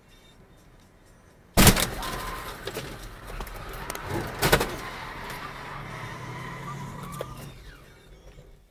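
Car collision: a sudden loud crash about a second and a half in, then several seconds of loud, noisy sound with a second bang partway through, fading away near the end.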